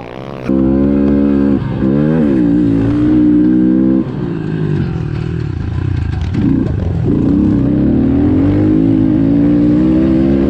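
Pit bike engine running hard at high revs. Its pitch holds, then dips and climbs again several times as the rider shifts and rolls off and back onto the throttle.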